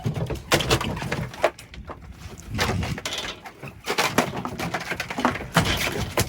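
Irregular knocks and thumps on a fishing boat, made by a hooked cobia being landed and handled.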